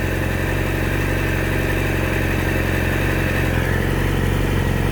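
2017 Yamaha YZF-R6's inline-four engine idling steadily through a LeoVince slip-on exhaust, with the stock catalytic converter still fitted, which keeps it quieter than it could be.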